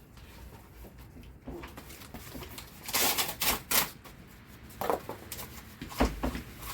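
Pizza box cardboard being torn and rolled by hand, in several short crackling, rustling bursts, the loudest about three seconds in. A low thump comes near the end.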